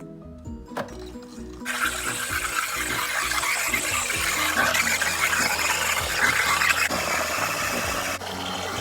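SMEG espresso machine's steam wand hissing loudly as it froths milk, starting about two seconds in and easing slightly near the end, over background music.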